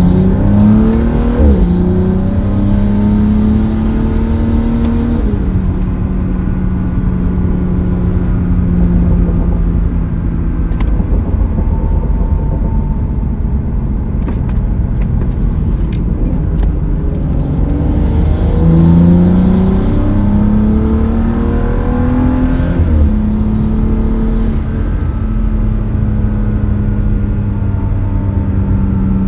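BMW 435i's turbocharged N55 inline-six with an M Performance exhaust, accelerating with rising pitch and shifting up about a second and a half in, then running at steady speed. Past the halfway mark it pulls again with two more upshifts, then settles back to a steady cruise.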